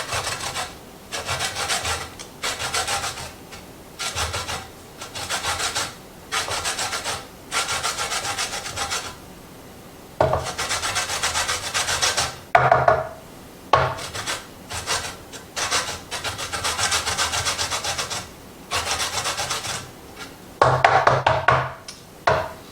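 Lemon rind being rubbed across a zester in repeated scraping strokes, roughly one a second with brief pauses: zesting a lemon.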